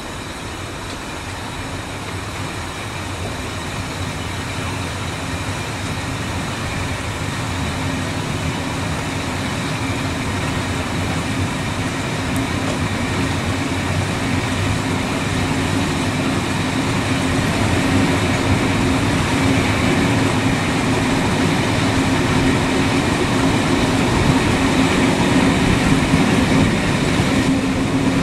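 A vehicle's steady running noise with a low hum, growing steadily louder throughout.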